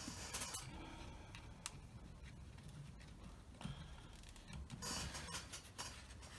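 Faint scattered clicks and short rustles of hands handling a foam model plane while checking its balance, with one sharper click a little under two seconds in.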